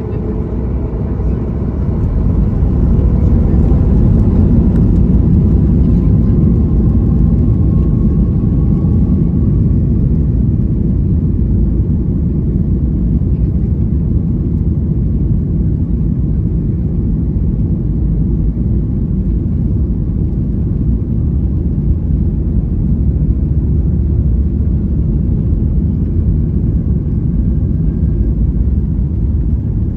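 Airliner taking off: a loud, steady roar of engines and rumble that builds over the first few seconds and then holds, with a faint rising whine a few seconds in.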